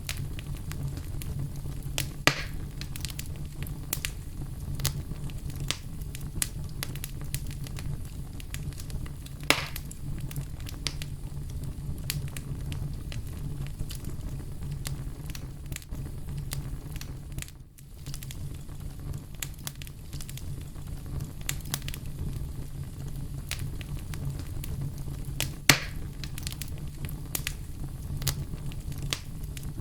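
Campfire burning: a steady low rumble with frequent small crackling snaps, and three louder pops, about two seconds in, near ten seconds, and near the end. The sound dips briefly a little after halfway.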